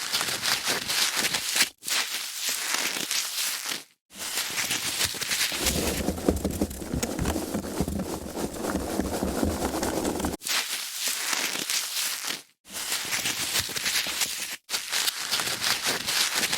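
Foam packaging being handled and rubbed, in a string of separate takes that each stop abruptly with a brief silent gap. The take in the middle, lasting about five seconds, is fuller and deeper than the rest.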